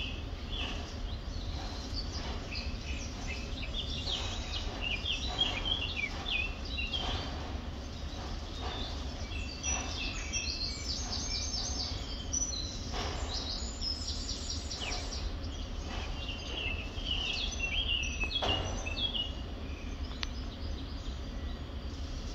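Small birds chirping and twittering in quick runs of short high notes, over a steady low hum, with a couple of soft knocks in the second half.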